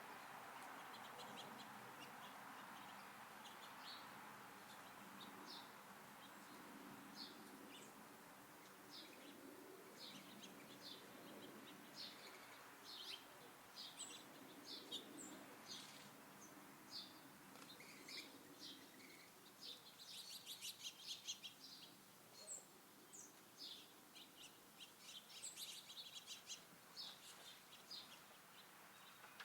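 Small songbirds chirping: many short, high chirps scattered throughout, with quicker runs of chirps about two thirds of the way through and again near the end.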